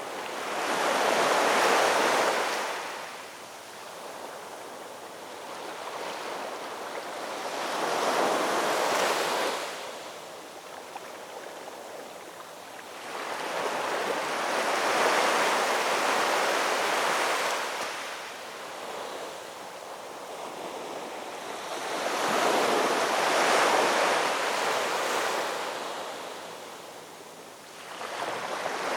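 Ocean waves breaking and washing back, each wave swelling to a rush of surf and fading, about four waves over half a minute.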